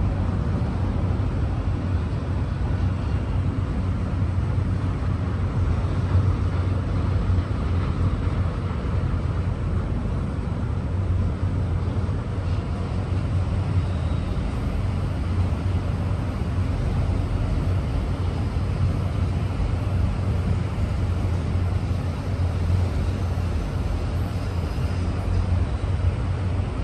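Freight train of auto-rack cars rolling past, a steady low rumble of wheels on rail.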